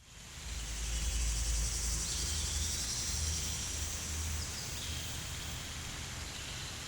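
Tropical rainforest ambience fading in: a steady high insect hiss over a low hum, with a couple of faint short calls about two and four and a half seconds in.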